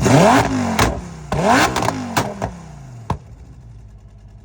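A car engine being revved in two quick blips, each rising sharply and then falling away, with sharp pops as the revs drop. It settles to a quieter idle after about three seconds.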